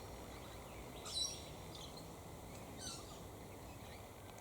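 Faint bird calls: a couple of short, high chirps, about a second in and again near three seconds, over a low steady outdoor background noise.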